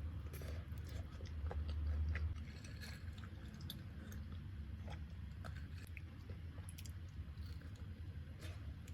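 A person chewing and biting food, with scattered small crunches and clicks over a steady low hum.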